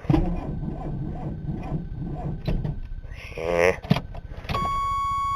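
1985 Chevy S-10's 2.8-litre V6 cranking slowly on its starter without firing, a sign of a weak battery that lacks the charge to start it. A steady high-pitched electronic tone starts suddenly near the end.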